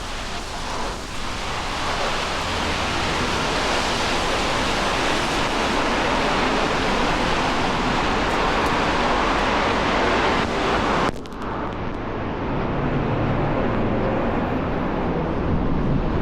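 Steady rushing noise of rain and wet city street, with wind on the microphone. About eleven seconds in it dips briefly and turns duller, with a low rumble after.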